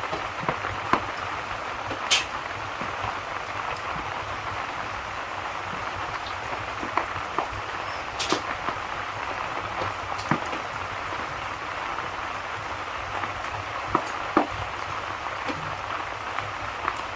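Steady rain with the scattered pops and crackles of a wood fire. A few sharper pops stand out about 2, 8 and 10 seconds in.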